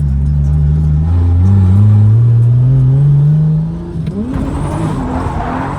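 Toyota Supra drift car accelerating hard, its engine pitch climbing steadily for about three seconds and then dropping as it comes off the throttle. Near the end a rushing tyre noise builds as the car starts to slide.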